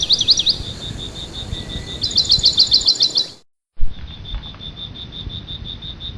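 Parrots chirping in quick runs of short, high notes over a steady, pulsing high trill. The sound drops out for a moment about halfway through, then the trill carries on alone.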